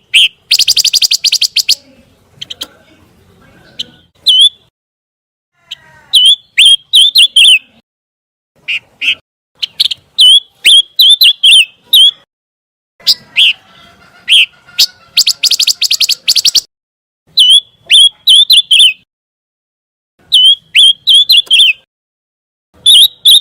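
Bird song of the bird known to Indonesian bird-keepers as pancawarna: bursts of sharp, clear chirps and short rapid trills, repeated in phrases with pauses of about a second between them.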